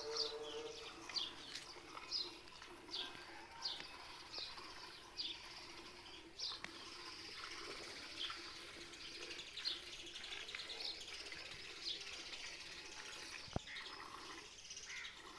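A small bird chirping over and over in short, high, falling notes, about one a second at first and more sparsely later. There is a single sharp click about 13 seconds in.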